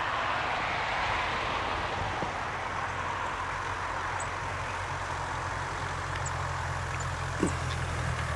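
A truck's engine running steadily, its low hum growing stronger in the second half, under a continuous rushing hiss.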